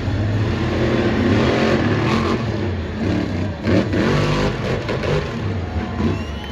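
Monster truck engines, supercharged 1,500-horsepower alcohol-burning motors, revving hard, their pitch rising and falling, with the loudest surge about four seconds in.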